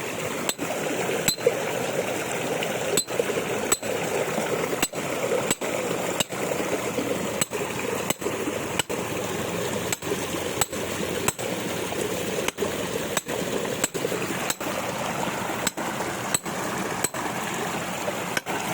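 Repeated hammer blows striking to break something apart, about one every two-thirds of a second with a few brief pauses, over a steady hiss of rain and water.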